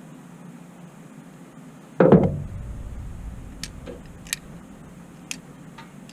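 One loud clunk about two seconds in, fading with a short low rumble, then a few light clicks of small parts and tools being handled during carburetor work on a generator.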